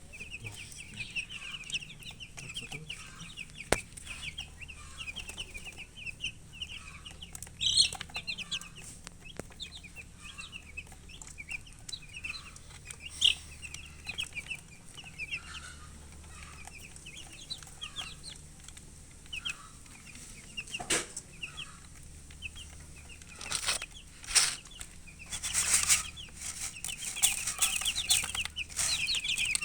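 A brood of baby chicks cheeping continuously, many short high peeps overlapping, which the uploader puts down to thirst for drinking water. A few louder rustling noises break in over the last third.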